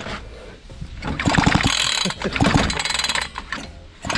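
Recoil pull-starter of a Fubag FPT 52 two-stroke petrol trimmer being pulled about a second in, turning the engine over with rapid ratcheting clicks for about three seconds without it firing. The engine is flooded with fuel.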